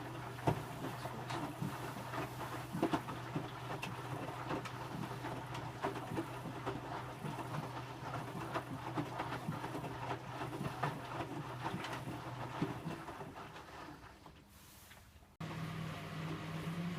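Electrolux W455H commercial washing machine running: a steady low hum with irregular clicks and knocks. It fades out about fourteen seconds in, then gives way abruptly to a different steady hum of several low tones.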